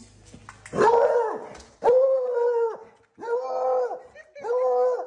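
A pet animal calling four times in a row, each call about a second long and held on a steady pitch.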